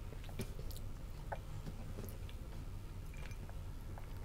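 Faint chewing and mouth sounds, with a few small clicks and taps as fried chicken skin is picked from a plate and eaten.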